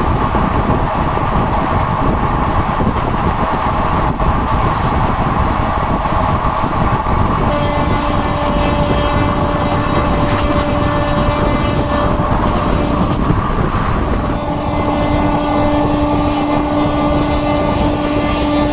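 Indian passenger train running at speed, a loud steady rumble of wheels on rails. Two long, steady locomotive horn blasts sound over it, the first starting about a third of the way in and lasting about four seconds, the second starting near three-quarters of the way in and running on to the end.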